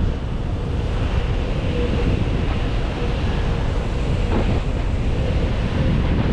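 Strong wind buffeting the microphone: a steady, heavy low rumble of wind noise.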